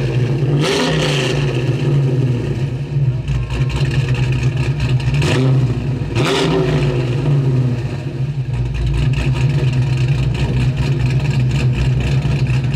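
1969 Dodge Super Bee's 440 V8 running through a Flowmaster exhaust, idling with a few short revs: one about a second in and two more around five to six seconds in.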